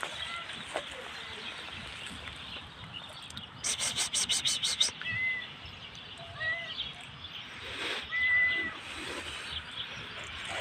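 Birds calling outdoors: a fast, even rattling chatter lasting just over a second, a few seconds in, and several short arched chirps scattered through, over steady outdoor background noise.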